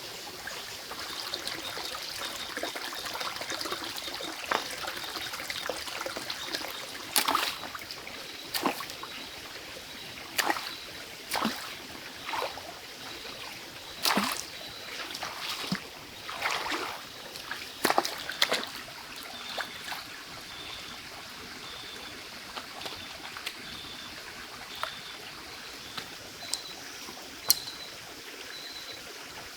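Water trickling steadily, with a run of short splashes about seven to nineteen seconds in.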